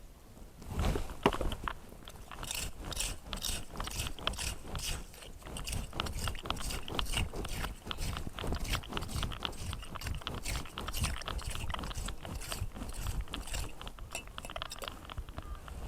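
Clam rake scraping through wet sand and shell grit while digging for surf clams: quick repeated rasping strokes, a few a second, with a louder stroke about a second in.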